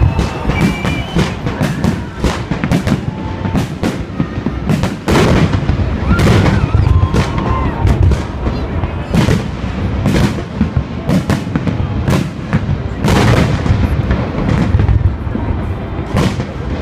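Fireworks salute: a dense run of bangs and booms from shells bursting overhead, several a second, without a break.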